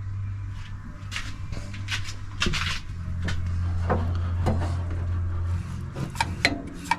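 Scattered light knocks and clicks from handling parts, over a steady low hum.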